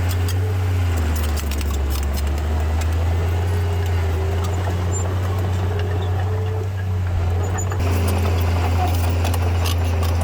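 Diesel engine of a Komatsu D31P crawler bulldozer running steadily. Its low drone drops in pitch about a second in and rises again near the end, with scattered metallic clinks and rattles over it.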